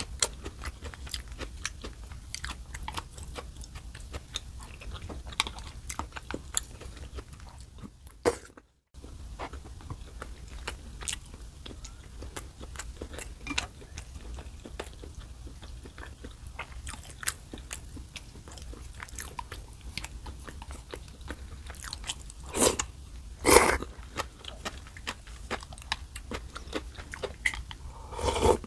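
Close-miked eating: steady chewing with many small wet clicks and crunches, and two louder bites near the end.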